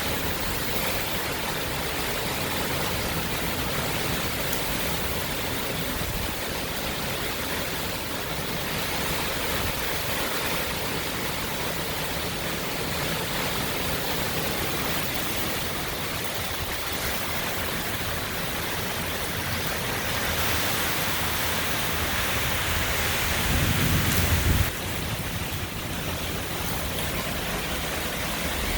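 Heavy wind-driven rain and high wind making a steady rushing noise. Near the end a louder gust with a deep rumble builds for about a second and then cuts off suddenly.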